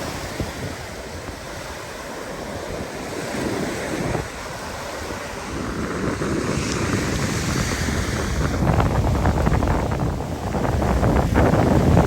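Wind buffeting the microphone over rushing, splashing water, getting louder with a heavier low rumble about two-thirds of the way through.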